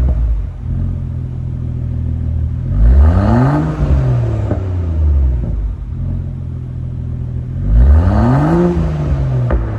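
All-new Land Rover Defender's engine through an aftermarket full valved exhaust, idling and revved twice while standing: each blip rises in pitch and falls back to idle over about a second and a half.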